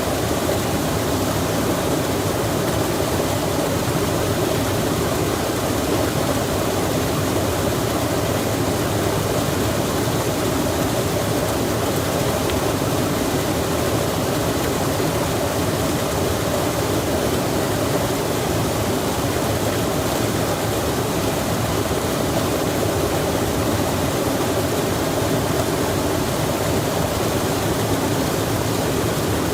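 Rain falling on a stream, heard as a steady, even rush of flowing water and rain.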